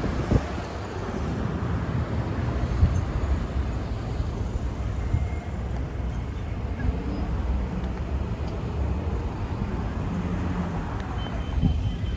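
Road traffic passing, with a steady low rumble of engines and tyres and a brief loud bump about a second in.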